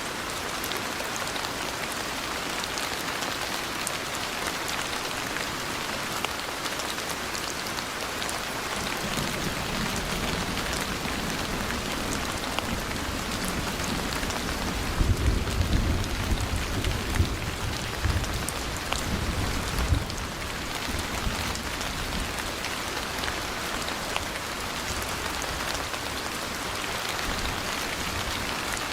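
Steady heavy rain falling, with a low rolling rumble of thunder that builds about nine seconds in, is strongest for several seconds around the middle, then fades.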